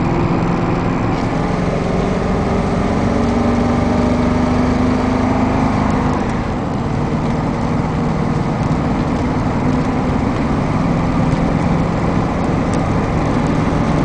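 Steady engine and road noise from a 2002 Chevy 3500 work truck cruising at about 50 mph, heard from inside the cab. The engine note changes briefly about six seconds in.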